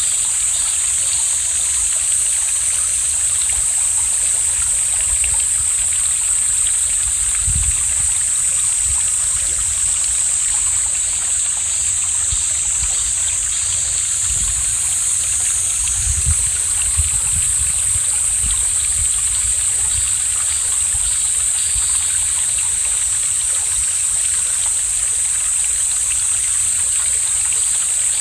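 Valley stream water flowing steadily, an even rushing hiss, with a few brief low rumbles about 7 and 16 seconds in.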